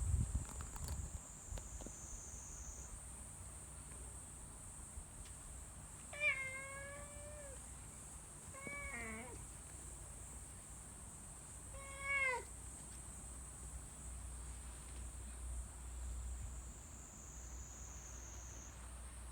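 A cat meowing three times, a few seconds apart, each a short call that dips and rises in pitch. A low bump is heard right at the start.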